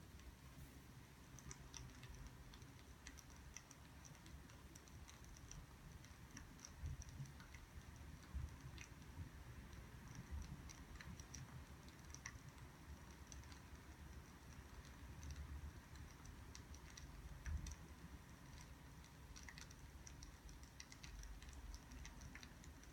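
Faint crackling of a burning wood fire: scattered, irregular small pops and ticks over a low steady rumble.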